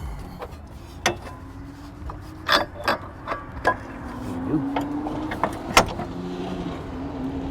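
Metal tools clicking and knocking against car parts during hub reassembly, a dozen sharp strikes and clinks. About four seconds in, a faint low hum starts and slowly rises in pitch.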